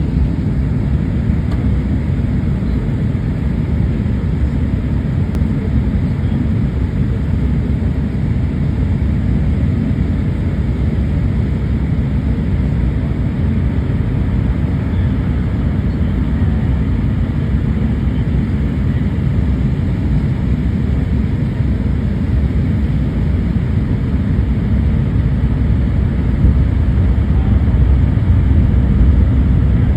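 Airliner cabin noise on the approach to landing: a steady low rumble of engines and airflow, growing slightly louder near the end.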